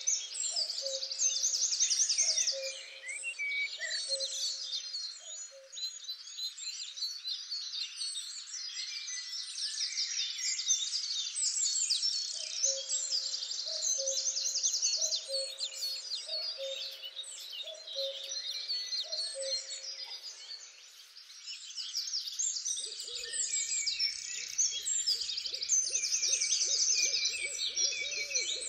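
Dense chorus of small songbirds chirping and trilling, with a low hooting call repeated about once a second in two long series, and a lower rapid fluttering call near the end.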